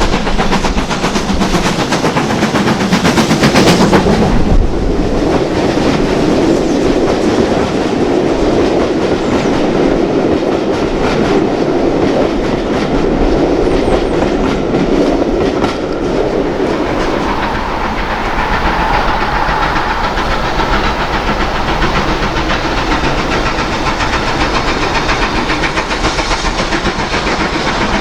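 A steam-hauled train passing, its wheels clattering over the rail joints. The noise is loudest about four seconds in, then settles into a steady rolling of the coaches going by.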